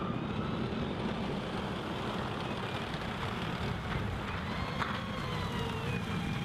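A steady low rumble like a running vehicle engine, with a faint wavering whine above it.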